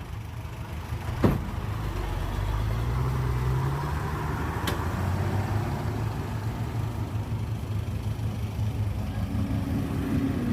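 Heavy diesel engine of earth-moving machinery rising in pitch as it revs, then running on steadily. A sharp knock comes about a second in.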